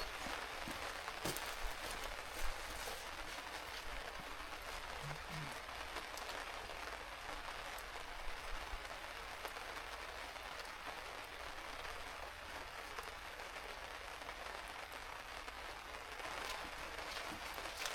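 Steady, even patter like rain falling on a surface, with scattered light clicks.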